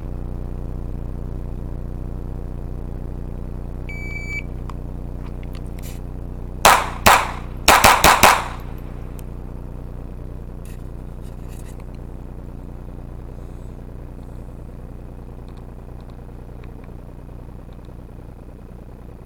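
A shot timer's short beep, then a GSG 1911 .22LR pistol fired six times in quick succession: a pair, then a string of four about a fifth of a second apart. A steady low hum runs underneath throughout.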